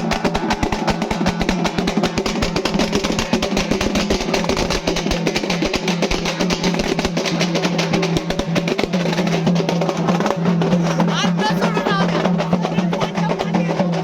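Halgi frame drums played in a fast, continuous beat of rapid strokes, close to a roll.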